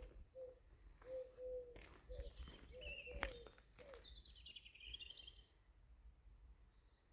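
Faint birdsong: a low cooing in short repeated phrases, some higher chirps, and a falling trill about four seconds in, with a few light knocks.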